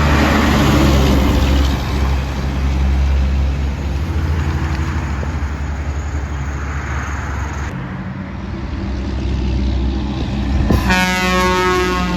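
Heavy trucks passing on a road, engines and tyres making a steady rumble. Near the end a truck's air horn sounds, a chord of several tones held at once.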